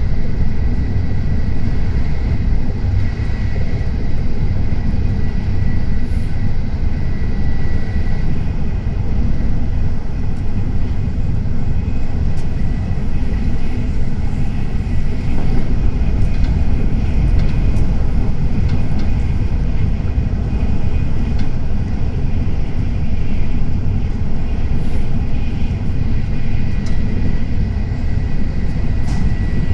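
Tokaido Shinkansen train running, a steady low rumble and rush of running noise with a faint steady high whine.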